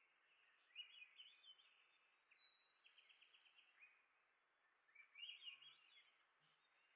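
Faint birdsong over quiet background hiss: a small songbird sings a quick warbled phrase about a second in and another about five seconds in, with a short, even run of rapid notes between them.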